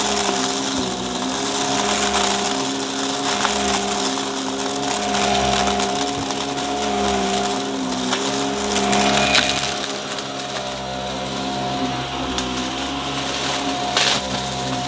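Upright vacuum cleaner running with a steady motor whine while it sucks up crunchy debris, which crackles and clicks through it. The motor pitch wavers slightly as the load changes.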